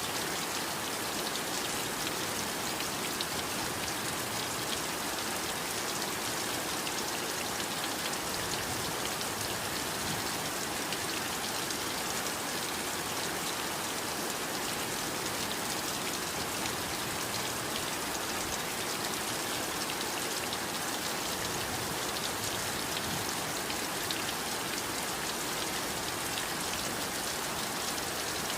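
Steady heavy rainfall, a dense even hiss with fine pattering drops.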